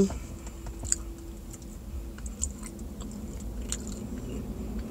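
A person chewing a soft pretzel with mouth clicks, the clicks scattered about once or twice a second, over a faint steady low hum.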